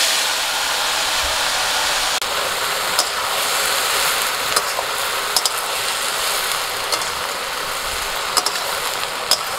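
Kul (Indian jujube) berries sizzling in hot mustard oil in a karahi, just tipped in. A loud, steady sizzle that eases slightly, with a few sharp clicks of a metal spatula against the pan as they are stirred.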